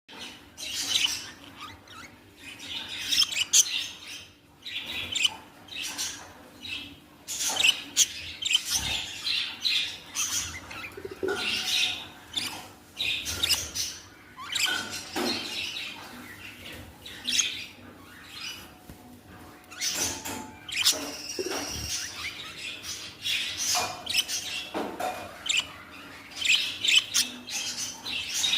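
Budgies, likely young ones, chirping and chattering nonstop with many short, high chirps and occasional lower calls.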